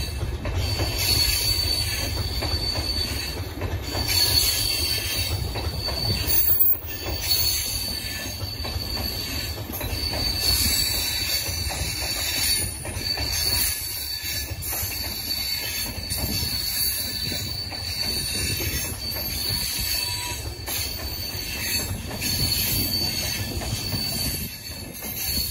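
Passenger train coaches rolling past at a station, their steel wheels rumbling steadily on the rails with light clicks over the rail joints. A thin high-pitched whine from the wheels comes and goes throughout.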